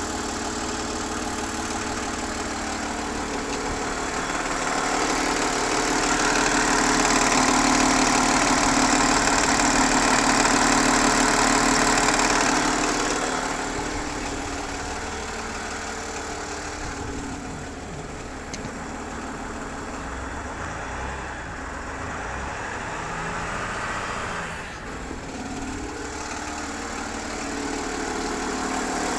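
Land Rover Discovery 4 TDV6 diesel V6 engine idling cold with a chattering noise, which the owner cannot account for. It gets louder for several seconds, then settles back to a steadier level.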